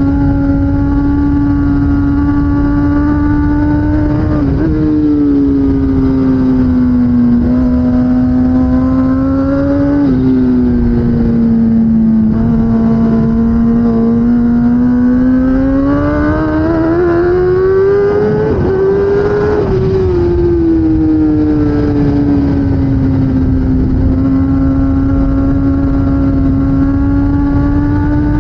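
2016 Kawasaki ZX10R superbike's inline-four engine under race load, its pitch stepping abruptly at gear changes a few times, climbing steadily for several seconds, then falling away as the bike slows before rising again near the end. A heavy rushing noise, likely wind, runs underneath.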